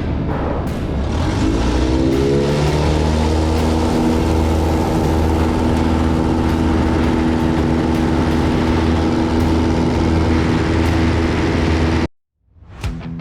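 Carbon Cub light aircraft's piston engine and propeller running, rising in pitch about two seconds in as power comes up, then holding steady. The engine sound cuts off abruptly near the end, and guitar music begins.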